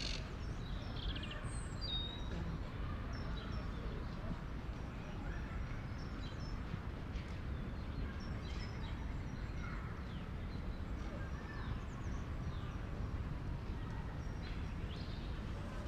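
Outdoor city-park ambience: many small birds chirping and calling in short scattered notes over a steady low rumble of distant city traffic.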